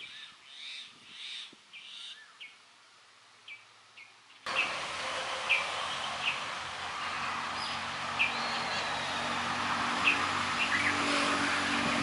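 Birds calling: first a few hoarse, scratchy calls and short chirps over a quiet background. About four seconds in, a louder, steady rushing background noise comes in abruptly, with short sharp chirps repeating about once a second as a red-vented bulbul calls.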